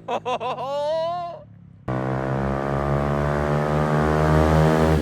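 A short shout of "oh", then, about two seconds in, a Honda CRF110 pit bike's small single-cylinder engine with a Yoshimura exhaust starts in suddenly, running hard with its pitch slowly rising as it accelerates.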